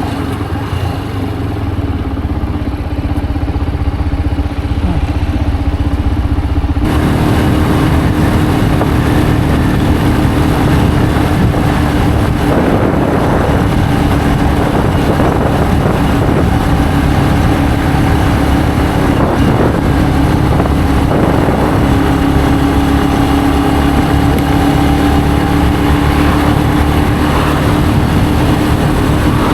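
Benelli BN125's 125 cc single-cylinder engine running steadily while the motorcycle is ridden along the road. About seven seconds in, a loud rush of wind and road noise comes in suddenly and then holds steady over the engine.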